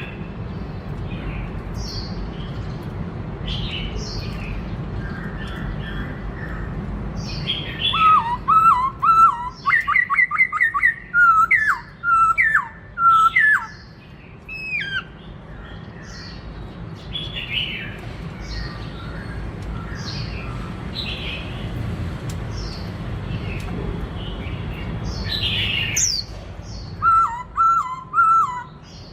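Black-throated laughingthrush singing: scattered short chirps, broken by loud runs of quick whistled notes about eight seconds in and again near the end, over a steady low rumble.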